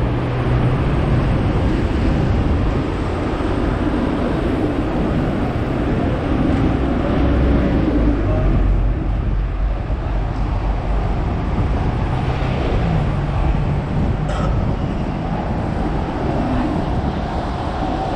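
Hong Kong double-decker tram running along its street tracks: a steady rumble and rattle with a low motor hum, and a single sharp click about fourteen seconds in.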